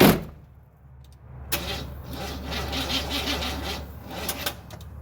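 A sharp knock, then about a second and a half in the starter cranks the long-dormant engine of a 1978 Chevy C10 over for about three seconds with a rhythmic churn. The engine does not catch.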